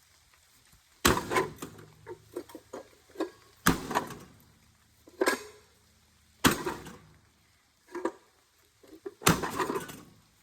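An old rusty microwave being smashed with a hand-held tool: four heavy metal strikes about every three seconds, each followed by clattering and rattling of loose parts.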